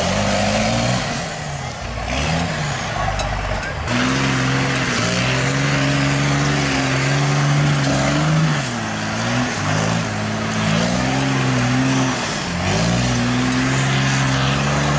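Off-road race vehicle's engine revving hard on a course, its pitch holding high, then dropping and climbing back several times as the throttle is lifted and reapplied. The engine is lower and more uneven for the first few seconds, then picks up strongly about four seconds in.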